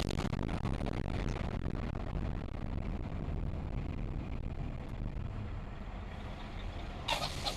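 Road and engine rumble of a moving car heard from inside the cabin by a dash cam, with a short, sharp burst of noise near the end.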